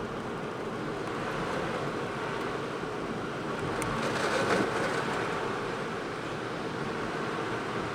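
Steady road and engine noise of a car being driven, with a brief louder swell about halfway through.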